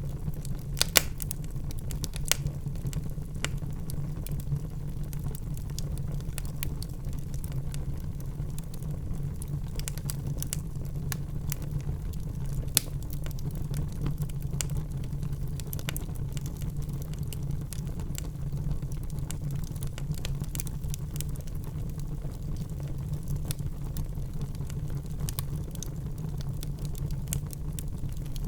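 Wood fire burning in a fireplace: a steady low rumble of flames with irregular crackles and snaps of burning logs, a few louder pops about a second in, two seconds in and near the middle.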